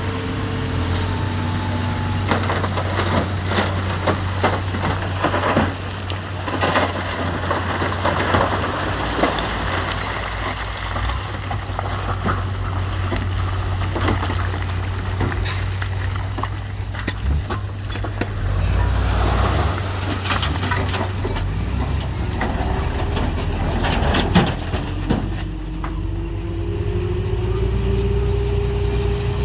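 Heavy diesel earthmoving machinery, a bulldozer and dump trucks, running with a steady low engine drone and scattered metallic clanks and knocks. A held whine comes in over the last few seconds.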